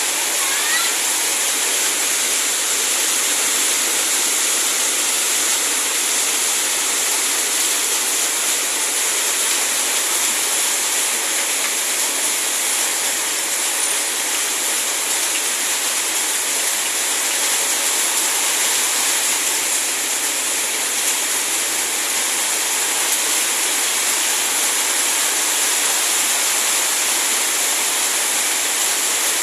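Heavy rain pouring down in a steady, even rush of water.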